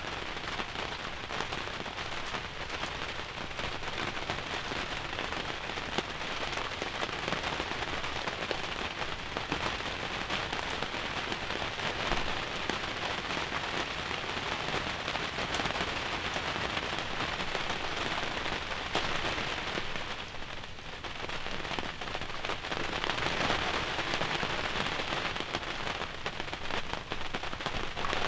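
Steady rain shower falling on a hunting ground blind, a dense patter of drops that briefly eases about two-thirds of the way through.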